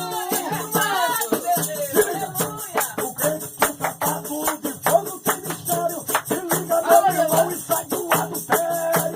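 Pentecostal worship music: a fast, steady shaker and tambourine rhythm with singing voices over it.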